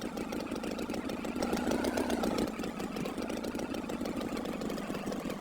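An engine idling with a fast, even chugging.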